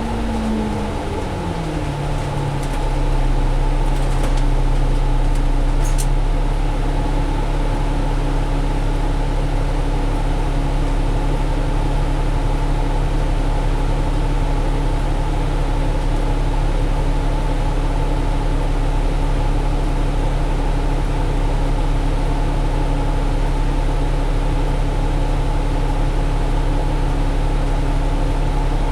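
Interior drone of a 2017 Alexander Dennis Enviro500 double-decker bus (Cummins ISL diesel, Allison automatic) under way, heard from the upper deck. The engine note falls in pitch over the first couple of seconds, then holds as a steady drone with road rumble.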